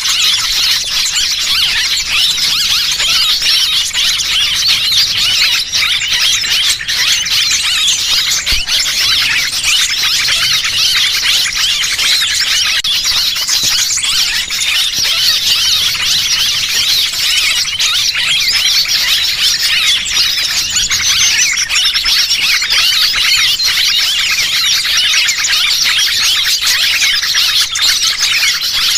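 A dense, continuous chorus of many small birds chirping and squeaking over one another, a small-bird lure recording meant to draw wild birds in.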